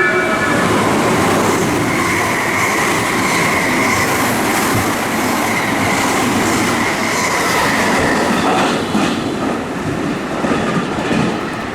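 An electric train passing through the station without stopping: a loud, steady rush of wheels on rail with a sustained high whine through the first half. Rail-joint clicks follow in the second half, and the noise eases off near the end.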